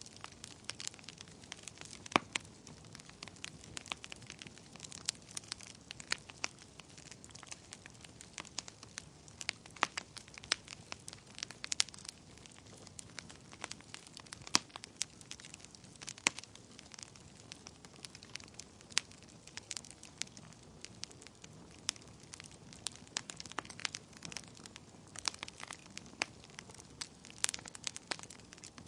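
Wood fire crackling in a fireplace: a soft steady hiss of burning with many sharp, irregular pops and snaps, a few louder ones scattered through.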